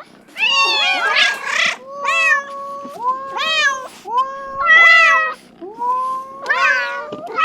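Domestic cats meowing, a run of about six meows in quick succession, some overlapping one another and many bending upward in pitch.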